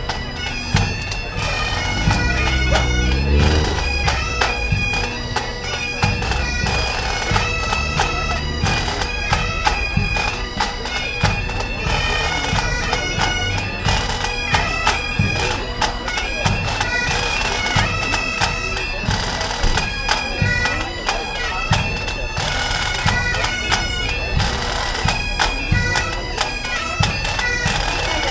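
Bagpipes playing a tune over their steady drone, with regular drum beats underneath, typical of a pipe band.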